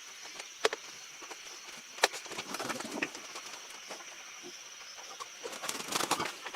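Farmyard birds calling in short scattered bursts, with two sharp knocks, one under a second in and one about two seconds in, over a steady high-pitched tone.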